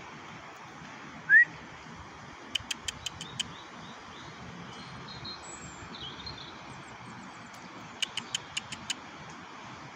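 Small birds calling over a steady outdoor hum. There is one short, loud rising whistle, a few faint high chirps, and twice a quick run of five or six sharp ticks.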